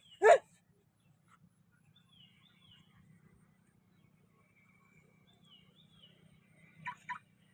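Birds chirping faintly outdoors, a repeated falling two-note call. A single loud, sharp, very short sound about a third of a second in, and two quick short sounds near the end.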